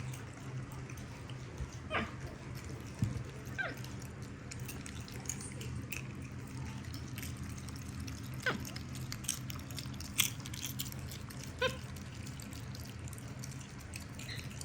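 Pet monkeys eating popcorn: scattered small crunching clicks and a few brief, squeaky calls over a steady low hum.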